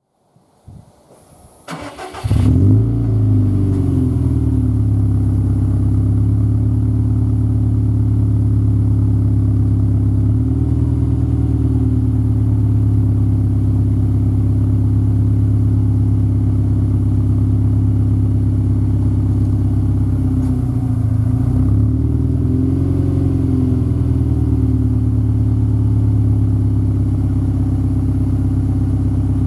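Subaru WRX STI (VAB) turbocharged flat-four boxer engine starting through an STI Performance muffler: faint cranking, then it catches about two seconds in and settles into a steady, deep idle. The idle wavers slightly twice.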